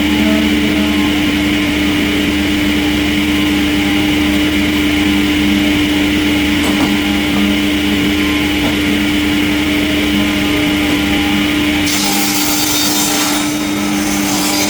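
Sawmill machinery running with a steady, loud hum. About twelve seconds in, a harsher hiss joins it for the last couple of seconds.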